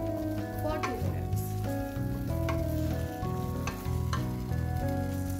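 Onion and tomato masala sizzling in a steel kadhai while a wooden spatula stirs it, with a few sharp scrapes and knocks. Background music of held chords plays throughout.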